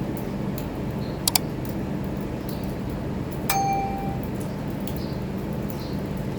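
Two sharp clicks, then about three and a half seconds in a single metallic clink that rings briefly, over a steady low rumble.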